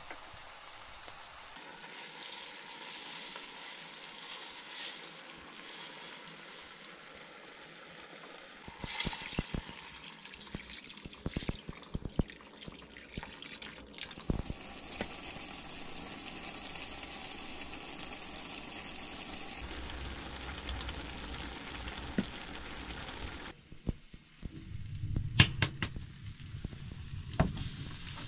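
Meat and vegetables frying in a cast-iron pot on a wood stove: a steady sizzle with scattered clicks. Water poured into the pot about halfway through brings a brighter, stronger sizzle, and a few knocks come near the end.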